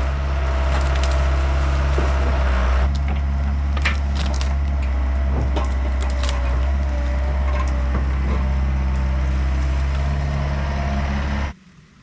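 Yanmar B50 compact excavator's diesel engine running steadily while hickory wood cracks and splinters, with scattered sharp snaps as the tree is broken up and crushed. The sound cuts off suddenly near the end.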